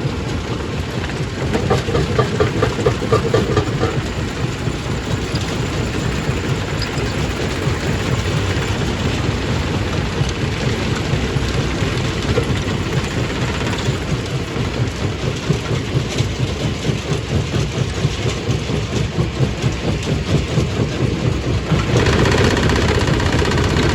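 Stone crushing machine running with rock being crushed: a steady heavy mechanical din with a dense, rapid knocking and rattle. About two seconds before the end it suddenly gets louder and sharper.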